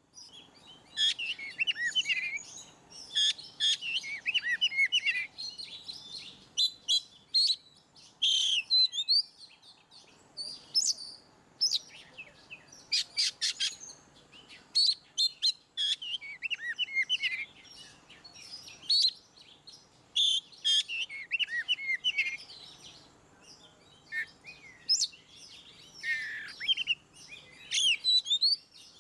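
Oriental magpie-robin (kacer) singing a long, varied song of rapid whistled phrases, trills and sharp clicks, broken by short pauses between bursts.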